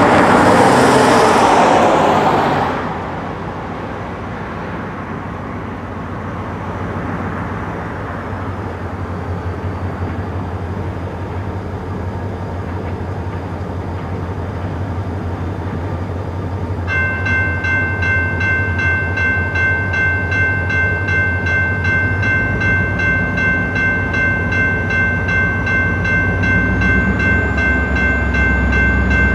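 A road vehicle passes at the start, then a diesel locomotive rumbles steadily, growing louder as it approaches. About 17 seconds in, a railroad crossing warning bell starts ringing and keeps ringing at a steady, fast pace.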